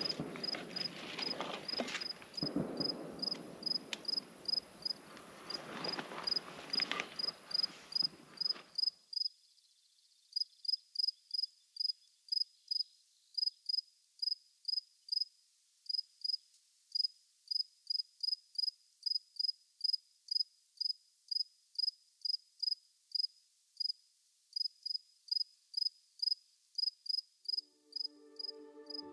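Cricket chirping steadily in a high, even pulse, about two chirps a second. For the first nine seconds there is also rustling with a few sharp knocks, which stops abruptly and leaves the chirping alone.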